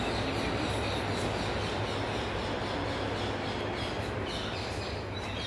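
Birds chirping, many short repeated calls, over a steady low hum and background noise.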